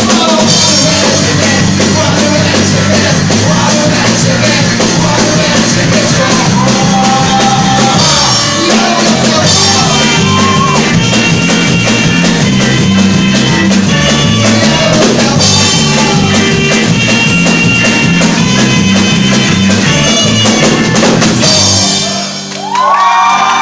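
A rock band playing live: drum kit and a bass line stepping between notes, with singing in places. The loudness dips briefly near the end before the band comes back in.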